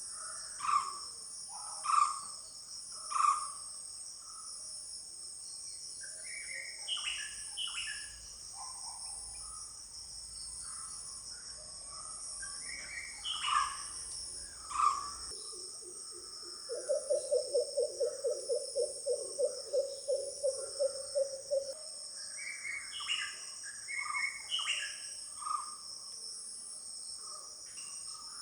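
Wild birds calling over a steady, high-pitched insect chorus. There are several loud single calls in the first few seconds, then a fast run of low repeated notes, about three a second, lasting some five seconds past the middle, then more scattered calls near the end.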